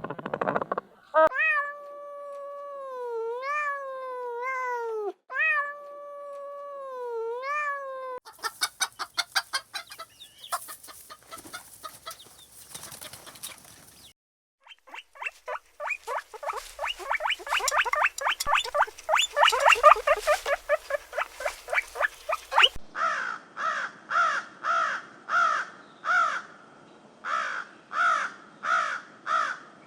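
Farm animal calls from several clips cut one after another: first a few drawn-out pitched calls that slide up and down, then rapid runs of short calls, and in the last seven seconds a regular series of calls about two a second.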